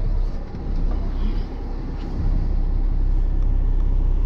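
Concrete mixer truck's diesel engine running, heard from inside the cab: a steady low drone that grows louder about halfway through.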